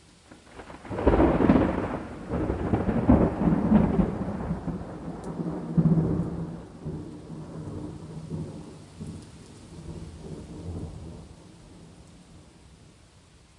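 A thunderclap breaks about a second in, rolls through several loud peaks, then rumbles away and fades over the next several seconds, over faint steady rain.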